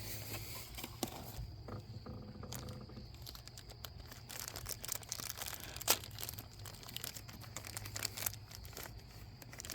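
Packaging being torn and crinkled open by hand to get at a small toy: quiet rustling with scattered small clicks and one sharper click about six seconds in.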